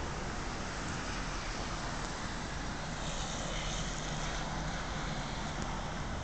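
Steady rain falling, an even hiss with a low rumble underneath and a slightly brighter hiss from about three seconds in.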